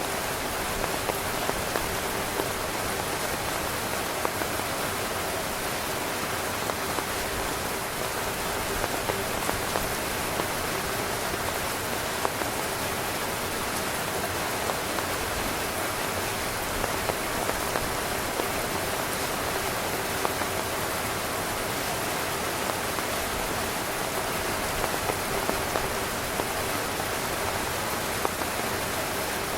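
Steady heavy rain falling on a tent: a constant hiss, with many small drop taps scattered through it.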